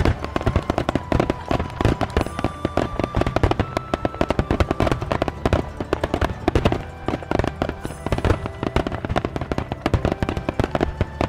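A rapid fireworks barrage: many bangs and crackles in quick succession, with no let-up.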